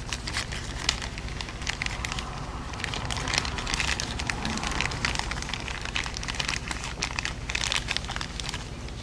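Plastic packaging crinkling and crackling irregularly in the hands as a new replacement oil bypass valve is taken out and handled.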